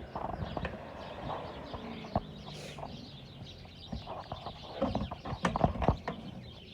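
Birds chirping and calling, with scattered sharp clicks and knocks that are loudest about five to six seconds in.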